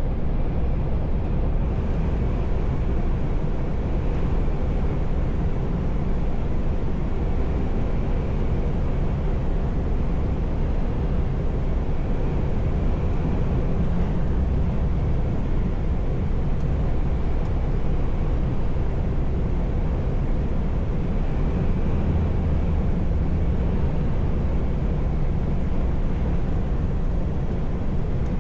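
Truck's diesel engine running steadily while driving, with road noise: an unbroken low rumble that holds the same level throughout.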